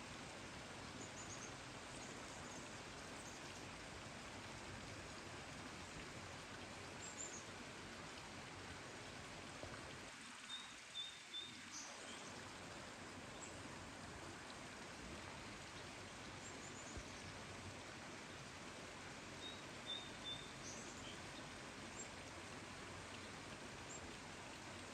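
Steady hiss of rain with small birds chirping now and then: short high notes scattered throughout, and twice a quick run of about three chirps.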